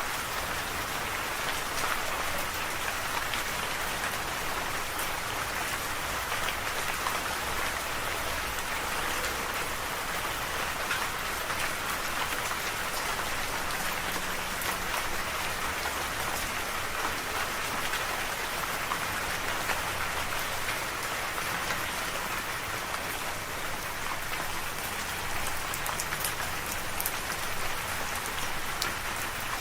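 Steady rain falling, an even patter with many small drop ticks.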